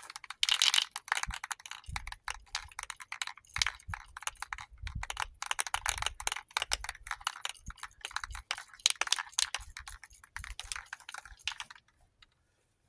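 Rust-Oleum Painter's Touch primer aerosol can shaken hard, its mixing ball rattling in rapid clicks. The rattling stops about a second before the end.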